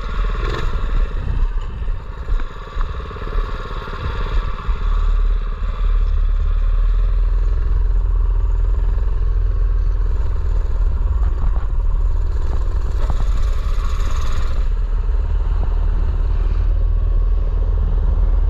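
Mini bike's small engine running while riding, over a heavy low rumble of wind on the microphone. The sound is uneven, with a few knocks, for the first six seconds or so, then settles into a steady drone.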